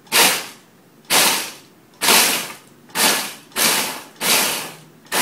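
Ninja blender pulsed in short bursts, grinding dry Oreo cookies into crumbs: about six pulses, roughly one a second, each starting sharply and dying away within half a second.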